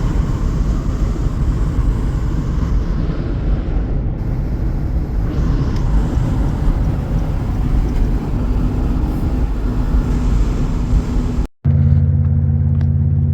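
2014 Acura MDX's 3.5-litre V6 through a full 3-inch cat-back exhaust, a loud rough rumble while the car is driven. Near the end the sound cuts off for an instant and comes back as a steady, even engine tone.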